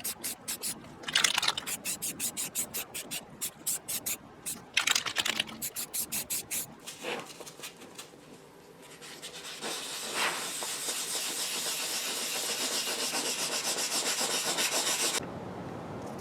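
Krylon aerosol spray-paint can shaken hard, its mixing ball rattling at about five strokes a second, then sprayed in a steady hiss for about six seconds that cuts off suddenly near the end.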